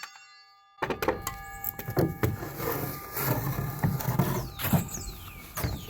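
Knocks and clatter of lumber being handled during the build, with a short whir of a small power tool near the end that falls in pitch as it winds down.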